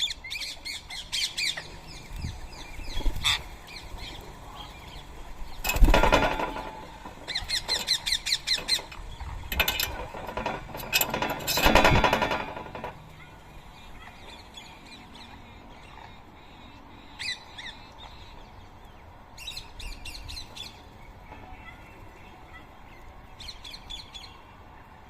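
Rose-ringed parakeets giving shrill, screeching calls in quick repeated runs, loudest and busiest in the first half, then fewer and fainter calls later on.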